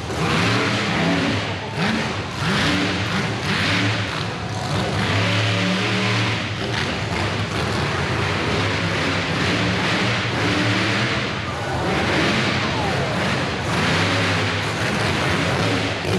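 Monster truck engine at full-throttle runs, revving up and falling off again and again.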